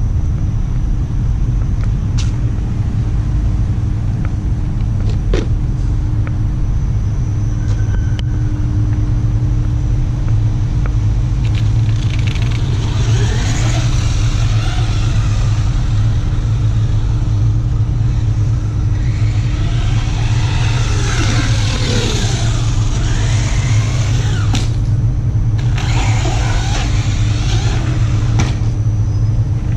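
Remo Hobby Dinosaurs Master 5 RC monster truck driving, its electric motor whining up and down in pitch along with tyre noise. This comes in three spells, about twelve, twenty and twenty-six seconds in, over a steady low rumble.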